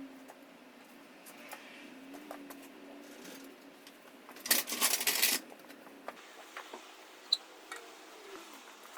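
Scattered small clicks and knocks, with a rattling clatter about a second long near the middle.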